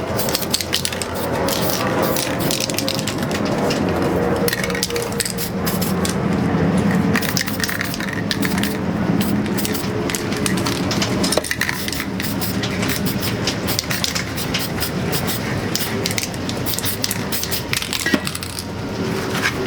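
Aerosol spray paint cans hissing in short repeated bursts, with metallic clinks and rattles from the cans.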